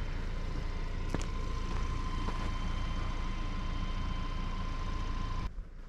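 Vehicle engine running steadily, with a thin steady high tone over it; both stop abruptly near the end.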